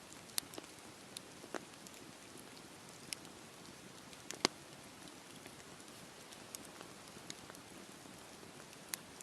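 Campfire burning with a soft steady hiss and irregular sharp crackles and pops of the burning wood. The loudest snap comes about four and a half seconds in.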